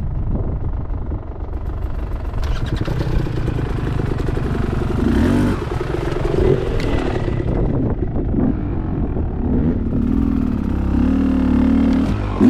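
Dirt bike engine running at trail speed, its pitch rising with the throttle a few times, the longest rise near the end.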